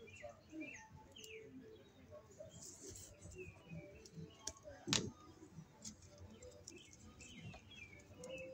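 Faint bird chirps over small clicks and rustles of a hand tool working on electrical cable, with one sharper click about five seconds in.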